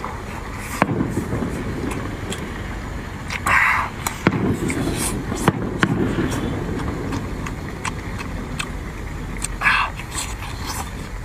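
Close-up mukbang eating sounds: a person chewing octopus from a pot of seafood, with many wet clicks and smacks, and two short noisy bursts, one a few seconds in and one near the end.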